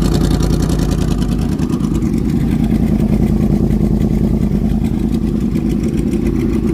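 Two 2014 Yamaha R1 inline-four engines with Toce slip-on exhausts, one baffled and one without baffles, idling steadily together after a cold start, still warming up.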